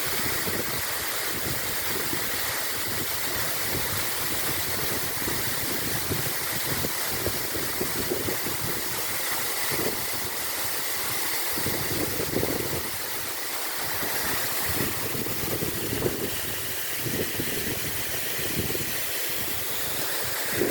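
Waterfall rushing steadily, with irregular low buffeting of wind on the microphone.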